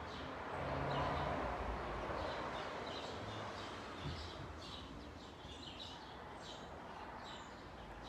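Small wild birds chirping over and over in the background, short high calls several times a second. Beneath them runs a steady rushing background noise that swells about a second in.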